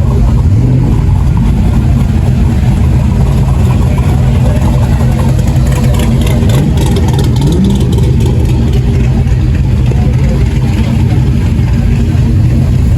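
Car engine running with a steady low rumble, with a brief rev about halfway through.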